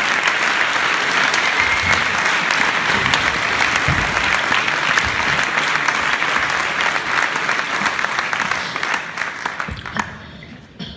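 Audience applauding, a dense clapping that thins out and dies away near the end.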